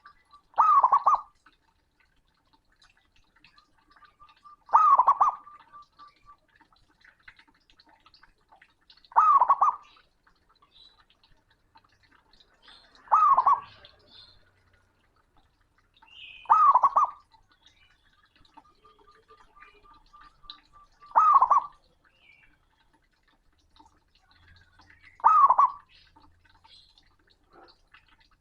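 Male zebra dove (perkutut) cooing loudly, a short burst of quick cooing notes about every four seconds, seven times. Some bursts are led in by a faint rapid string of notes.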